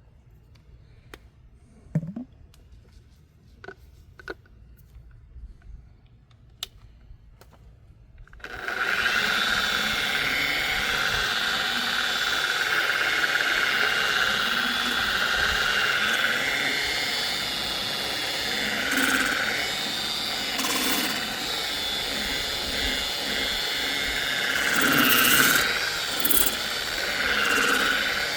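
A few faint clicks and light knocks of handling, then about eight seconds in a power polisher starts abruptly and runs steadily, buffing the oxidised plastic headlight lens, its pitch and loudness swelling now and then as it is worked.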